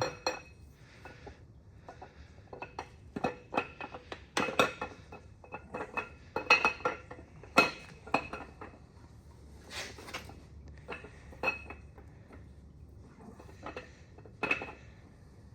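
Metal engine parts and hand tools clinking and clanking at irregular intervals, with short metallic rings, while an LS1 V8 is being taken apart.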